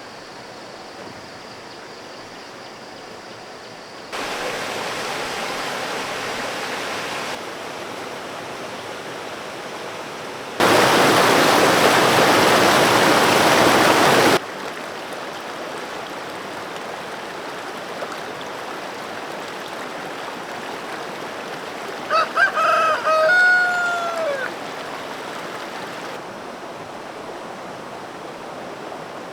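A rooster crows once, about two-thirds of the way through, over a steady rushing noise that jumps up and down in level at abrupt cuts. The loudest part is a few seconds of rushing noise near the middle.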